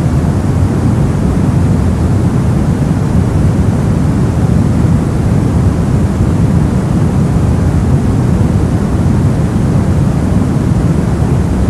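Soft, steady noise for sleep: an even rush with no tone or rhythm, weighted heavily toward the low end, and unchanging throughout.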